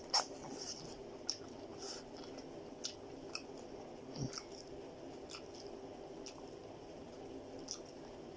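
Close-up eating sounds: a person chewing and biting into noodles and chicken, with scattered small wet smacks and clicks of the mouth.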